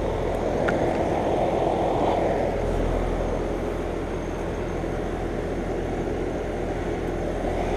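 Trane XB13 two-ton, 13 SEER central air-conditioner condensing unit running steadily: the condenser fan's rush of air over a low compressor hum.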